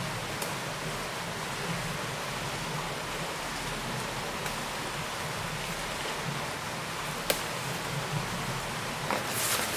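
Steady rushing of flowing river water, with a sharp click about seven seconds in and a brief louder splash-like hiss near the end.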